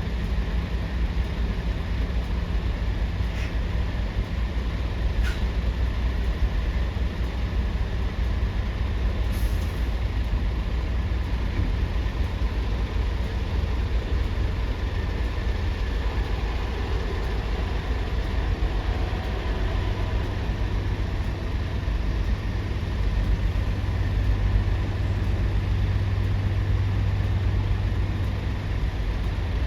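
Heavy vehicle engines running with a steady low rumble and hum, and a short hiss of air, like an air brake, about nine seconds in.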